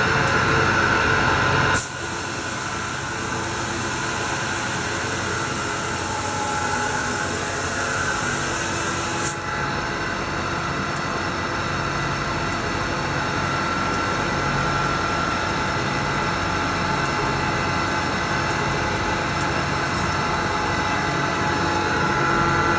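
Ramco 37-inch wet wide belt sander running, its abrasive belt and conveyor giving a steady machine hum with several held tones. It drops a little in level with a click about two seconds in, and another brief click comes about nine seconds in.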